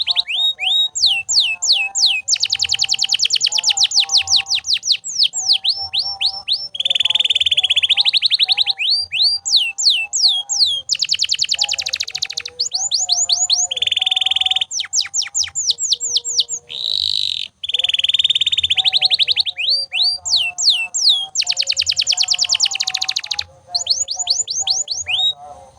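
Domestic canary singing without pause: fast rolling trills and runs of quick falling whistles, one phrase after another with only brief breaks.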